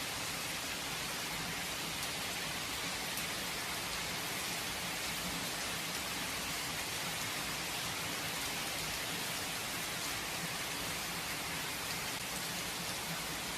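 Steady rain falling and pattering on surfaces, an even hiss with scattered drop ticks and no thunder.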